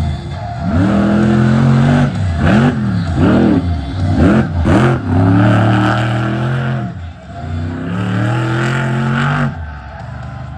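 Monster truck engine revving hard and rising and falling repeatedly, with quick throttle blips around the middle. It eases off sharply near the end.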